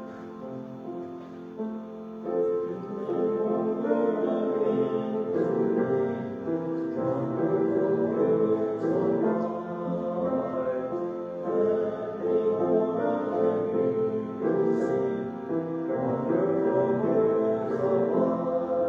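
Church music: piano with voices singing a hymn, sustained chords at a steady moderate level.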